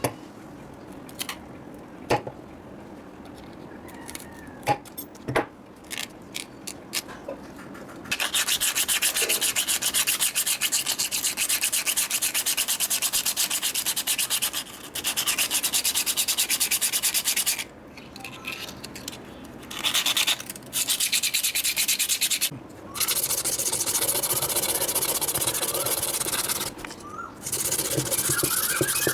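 Abrasive sanding of the rusty hammer's metal, in runs of several seconds that stop and start abruptly, after a stretch of light clicks and knocks from handling.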